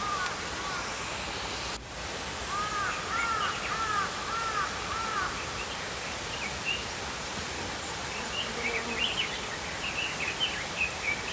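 Small songbirds calling over the steady rush of a flowing stream. A run of about six repeated arching notes comes a couple of seconds in, then quicker, higher chirps near the end.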